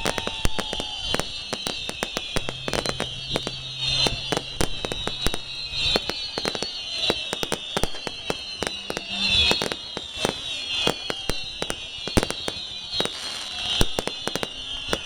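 Fireworks and firecrackers going off in rapid, irregular succession: many sharp bangs and cracks. Under them runs a continuous high shrill sound that dips in pitch and recovers about every two seconds.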